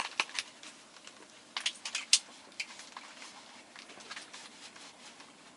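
Light, scattered clicks and taps of small objects being handled, with a sharper click about two seconds in.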